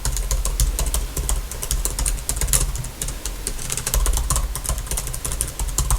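Computer keyboard being typed on quickly, a fast uneven run of light key clicks.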